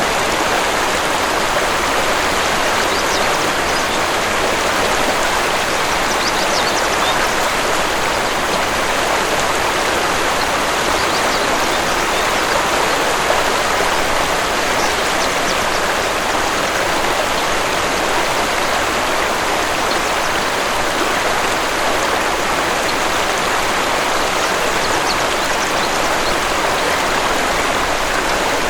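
Waterfall rushing steadily, with a few faint, brief bird chirps now and then.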